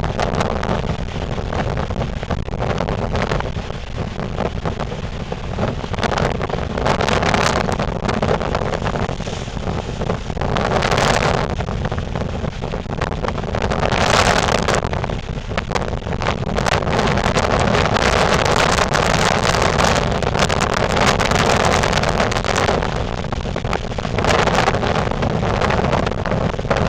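Strong onshore wind buffeting the microphone over heavy surf, swelling in gusts every few seconds, ahead of a hurricane.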